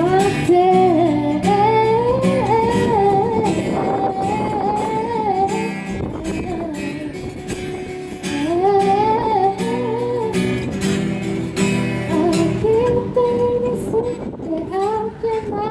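A woman singing a melody in three phrases over a strummed guitar.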